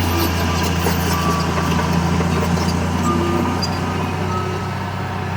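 Heavy construction machine's diesel engine running steadily with a low, even hum.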